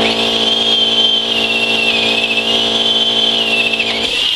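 Electric power tool motor running steadily with a high wavering whine, then switched off about four seconds in and winding down.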